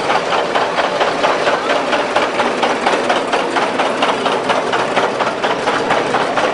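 Antique farm tractor engine running, with a steady, rapid beat of exhaust pulses.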